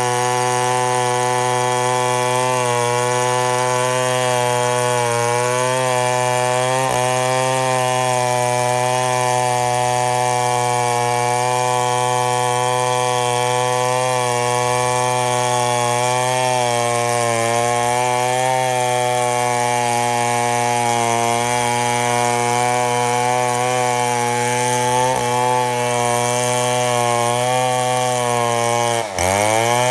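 Chainsaw running steadily at high revs while ripping lengthwise through a mahogany log in a milling cut. Just before the end the revs drop sharply and climb back.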